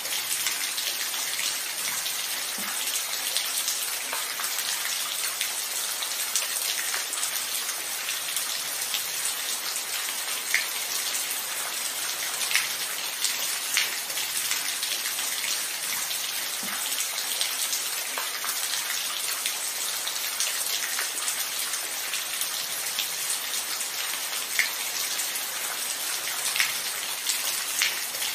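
Steady rainfall, a dense hiss with scattered louder individual drops ticking close by every second or two.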